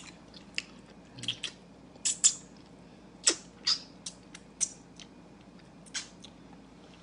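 Someone eating stewed fish head up close to the microphone: irregular wet mouth smacks and clicks, about a dozen short ones scattered through the stretch.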